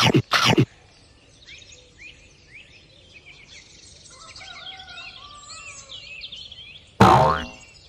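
Many small birds chirping and twittering. It opens with two loud short sound effects, and near the end a loud sudden sound drops quickly in pitch.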